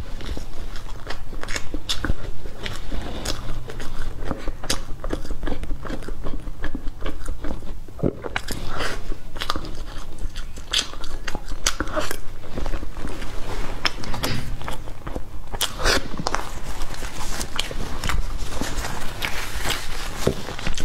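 Close-miked mouth sounds of a person eating cream-topped sponge cake from a spoon: chewing and biting with many short, irregular clicks.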